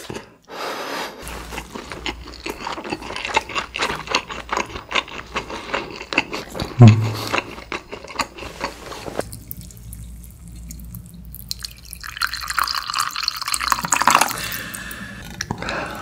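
Close-miked wet chewing of a mouthful of rice soaked in galbitang broth, full of small moist mouth clicks, with a single low gulp about seven seconds in. Later comes a longer, smoother stretch of wet mouth sound.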